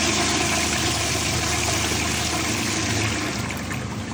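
1936 Bowers Pottery high-tank toilet flushing: a steady rush of water dropping from the overhead tank through the bowl, easing off slightly near the end.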